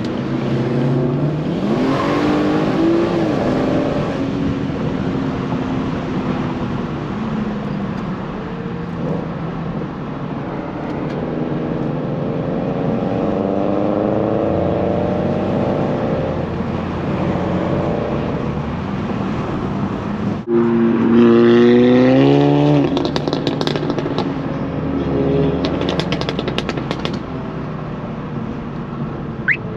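BMW 340i's turbocharged straight-six pulling along while driving, its note rising and falling with speed and gear changes. About two-thirds of the way through it climbs sharply in a short hard burst of acceleration, the loudest part, then drops back.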